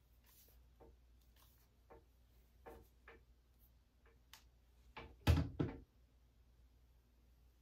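Scattered light clicks and knocks, with a louder double knock a little past five seconds in.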